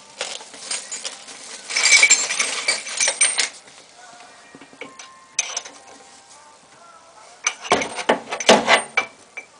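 Metal tools and car parts clanking and rattling during brake work, in two bouts of clatter, the second with a few dull knocks.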